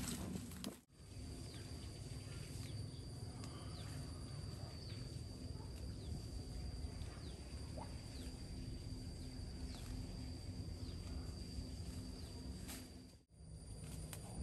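Rural outdoor ambience: a bird repeats a short, falling chirp about once a second over a steady, high, thin tone and a low background rumble. The sound drops out sharply about a second in and again near the end.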